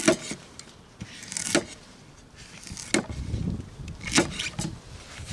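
Kitchen knife peeling and cutting celeriac on a wooden cutting board: scraping strokes of the blade and several sharp knocks of the knife on the board.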